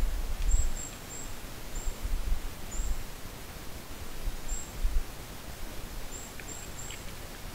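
A small bird calling: about ten short, very high, thin chirps, some in quick runs of two or three. Bursts of low rumble underneath, loudest about half a second in and again just before five seconds.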